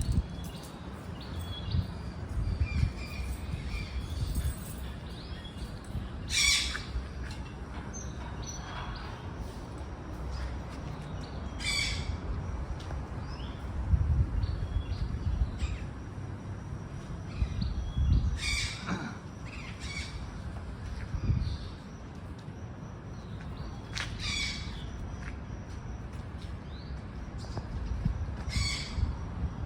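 Mini macaws squawking, about six short calls spaced several seconds apart, over a steady rumble of wind on the microphone.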